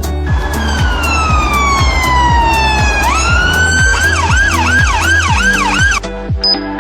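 Music with a steady thudding beat and a siren wail over it: one long falling wail, then a quick rise into a fast up-and-down yelp. The music changes near the end.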